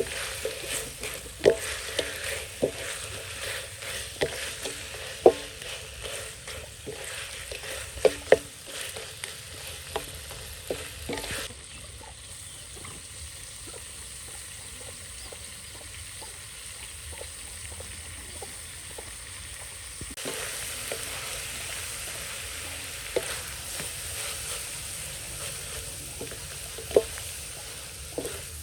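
Food sizzling in a hot pan while a utensil stirs it, knocking against the pan many times. About eleven seconds in the stirring stops and the sizzling goes on steadily, with a few more knocks near the end.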